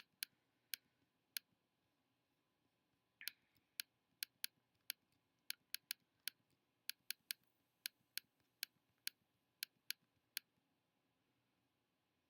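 Computer mouse clicking at an irregular pace, about two dozen sharp single clicks, some in quick pairs, stopping about ten seconds in.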